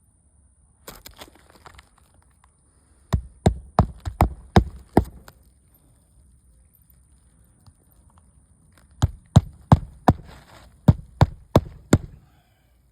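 Hammer driving roofing nails into a replacement shingle: two runs of quick, sharp strikes, about seven and then about eight, a few seconds apart, with a little scraping shortly before the first run.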